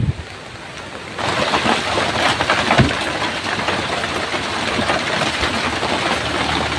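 Heavy rain pouring, a dense steady crackling hiss that comes in abruptly about a second in.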